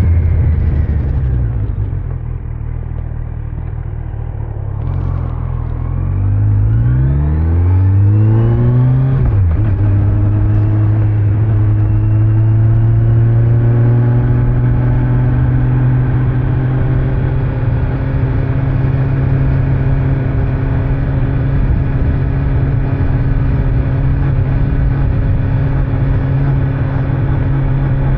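Kawasaki Z900's inline-four engine on the stock exhaust, with wind and road noise. The engine note falls and quietens as the bike slows at first, then climbs under acceleration to about nine seconds in and drops sharply with an upshift. After that it holds steady at cruising speed.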